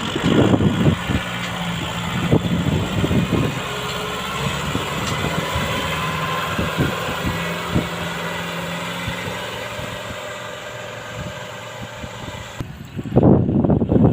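Kubota M6040 tractor's diesel engine running steadily, a low hum with a hiss over it. Near the end a louder, uneven rumbling takes over.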